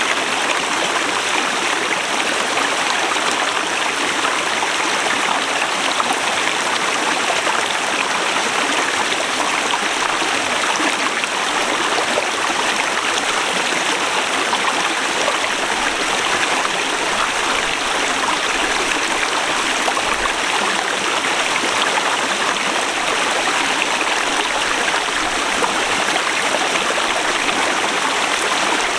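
Forest river flowing over rocks: a steady, full rush of running water.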